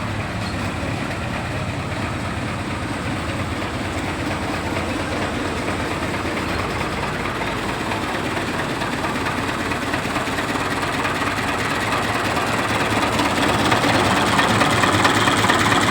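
Mahindra DI 475 tractor's diesel engine running steadily, growing louder over the last few seconds.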